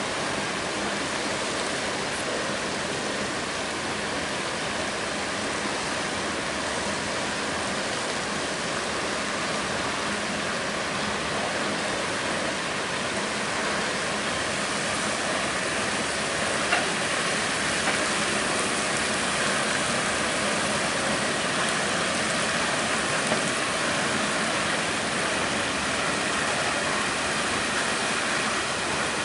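Freight train of tank cars rolling past on track under floodwater: a steady rushing noise of wheels on the submerged rails, with a few faint clicks in the second half.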